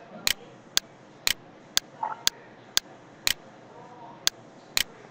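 Computer mouse clicking sharply, about two clicks a second, with one pause near the end.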